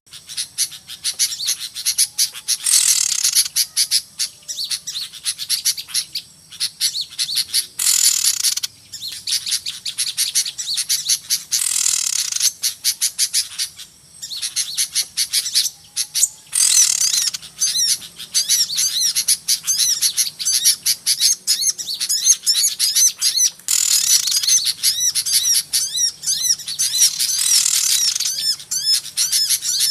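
A noisy chorus of small songbirds chirping and twittering without pause, high-pitched, with louder runs of rapid trilling every few seconds. It is a lure-call recording used to draw small birds to a trap.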